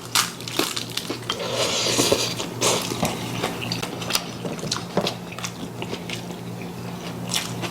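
Close-up eating sounds: chewing and biting on a mouthful of meat wrapped in vegetables, with scattered sharp clicks of cutlery against dishes, over a low steady hum.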